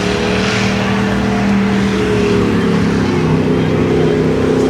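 Off-road truck engine running hard at high revs under load. Its pitch sags about three seconds in, then climbs again.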